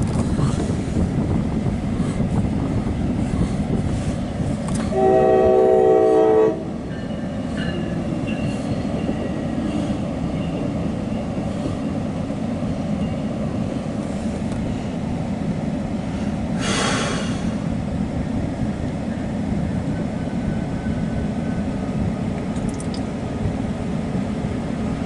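MARC commuter train led by a Siemens Charger diesel locomotive running past with a steady rumble and wheel clatter. The locomotive's horn sounds once, about five seconds in, for a second and a half. A short hiss comes near the middle.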